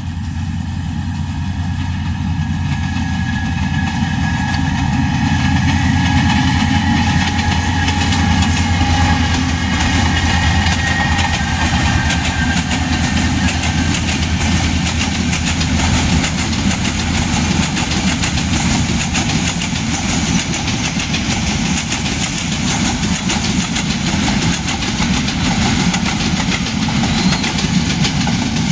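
Diesel locomotive hauling a long passenger train as it approaches and passes. A steady low engine hum dominates for about the first half, then gives way to the continuous clatter of the coaches' wheels rolling over the rails as the carriages go by.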